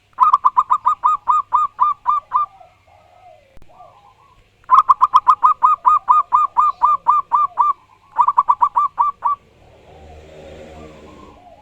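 Zebra dove (perkutut) cooing: three runs of rapid, even staccato notes, about six a second, with fainter lower calls between the runs. A fainter low droning sound comes in near the end.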